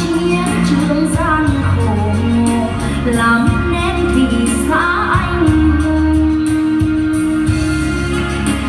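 Vietnamese pop song: a woman singing long held notes over a band backing of bass and drums with a steady hi-hat beat.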